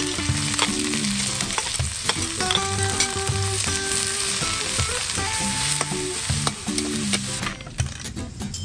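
Chopped onion and garlic sizzling in hot oil in a steel wok as the onion is tipped in and stirred with a metal spatula, which clicks and scrapes against the pan.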